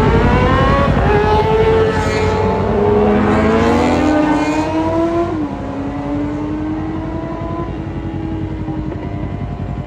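Kawasaki Ninja parallel-twin motorcycle engine accelerating, its pitch climbing through the gears. About five and a half seconds in the revs drop with a shift, then the engine runs steadily with the pitch rising slowly, over a constant low rumble of wind and road.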